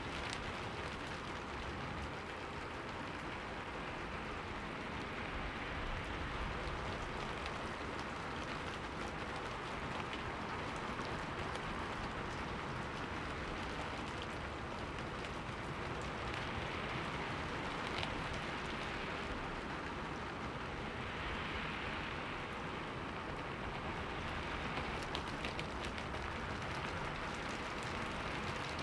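Steady rain falling on a window pane: a continuous hiss with scattered ticks of single drops, swelling a little now and then.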